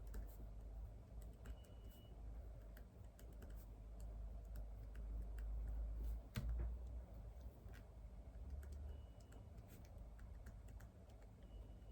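Faint typing on a computer keyboard: soft, irregular key clicks, with one louder tap about six seconds in.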